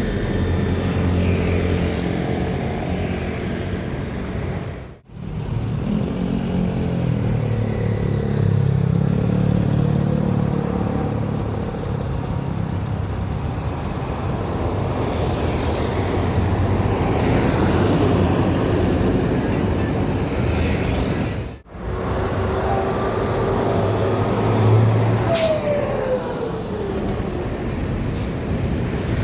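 Diesel trucks running and passing on a road, with deep steady engine drone and traffic noise, broken by two abrupt cuts. A short hiss about 25 seconds in is followed by a falling engine tone as a truck goes by.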